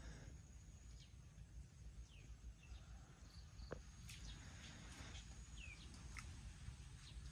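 Faint outdoor background: a low steady rumble with a few short, high bird chirps scattered through, and a single sharp click about three and a half seconds in.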